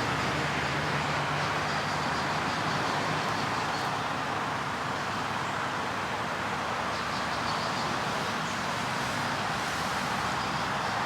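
Steady road and engine noise inside a moving tour van, an even rushing hiss over a faint low engine hum.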